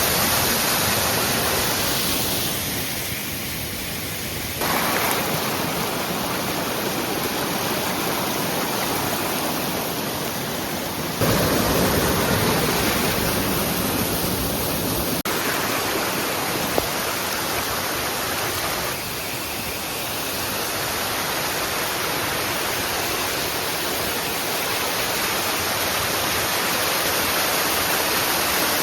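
Rushing water of a mountain stream and its falls, a steady even rush whose level and tone change abruptly a few times.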